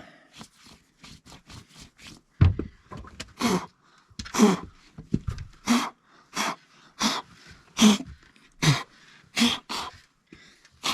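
A run of evenly spaced rasping cutting strokes into the wood of a door, about three every two seconds, with a few lighter scratches first.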